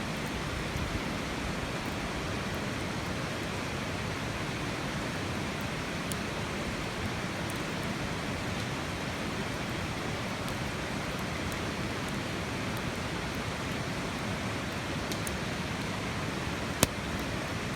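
Campfire crackling, with faint scattered snaps and one sharp pop near the end, over a steady rushing background noise.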